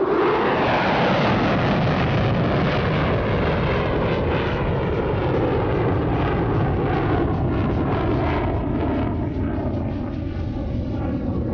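F-35A Lightning II's single Pratt & Whitney F135 jet engine on a near-sonic high-speed pass. It comes in suddenly and loud with a quickly falling pitch as the jet goes by, then a long, loud, crackling rumble that eases slightly near the end as the jet pulls up into a climb.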